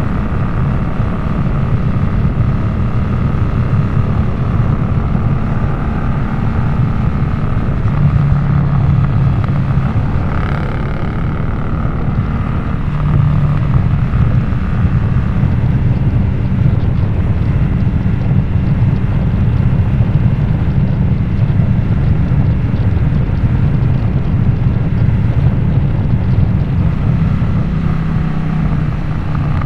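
Harley-Davidson Nightster V-twin running under way through a Jekill & Hyde adjustable exhaust, its low engine note holding steady for a few seconds at a time and shifting a little in between.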